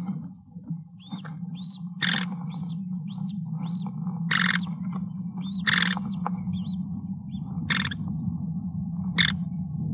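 Bird calls: a run of thin, arched chirps repeated a few times a second about a second in, and short harsh noisy calls every second or two, over a steady low hum.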